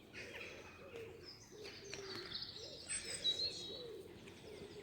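Woodland birds calling: a low wavering call under higher chirps, with a short clear whistle about three seconds in.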